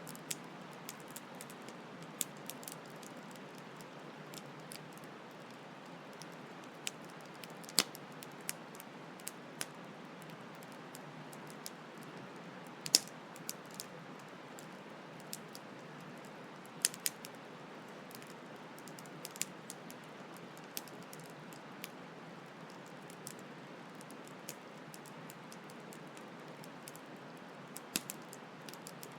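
Campfire crackling: irregular sharp pops and snaps, a few much louder than the rest, over a steady rushing noise of a flowing stream.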